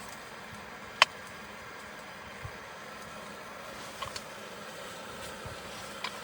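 Wood stove burning: a steady hiss with a few sharp pops and cracks, the loudest about a second in.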